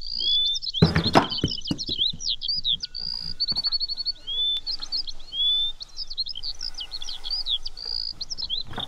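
Songbirds chirping, with rising whistled notes and rapid high trills, the same phrases repeating. A brief loud rustling burst comes about a second in.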